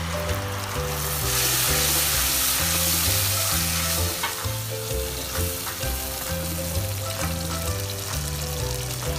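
Tomato purée frying in hot oil over fried onions in a wok: a loud sizzle swells about a second in and eases after about four seconds into a gentler frying hiss as the mixture is stirred with a wooden spatula. Background music with a steady bass line plays throughout.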